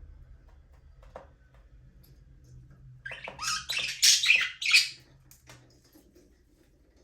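Budgerigars chirping and chattering in a burst of squawky calls about three seconds in, lasting a couple of seconds, with a few faint ticks before it.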